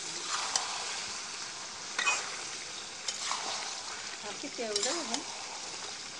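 Mutton and potato curry sizzling in a metal kadai, stirred with a spatula that scrapes the pan a few times over a steady frying hiss.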